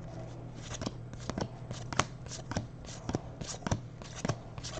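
Basketball trading cards being flipped and slid against one another by hand: a run of quick, irregular soft clicks and rustles.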